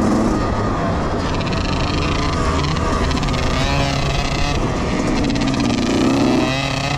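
Several youth dirt bike engines revving as the riders race by, their overlapping pitches rising and falling.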